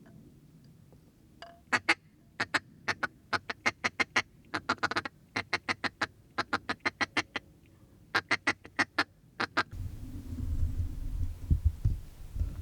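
Duck quacking: a run of loud, sharp quacks in quick groups of several each, about five a second, beginning about a second and a half in. Near the end the quacking stops and a low rumble takes over.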